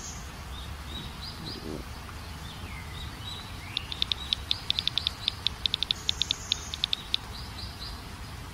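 Wild birds chirping: scattered short high chirps, with a fast run of sharp repeated chirps lasting about three seconds in the middle, over a steady low background hiss.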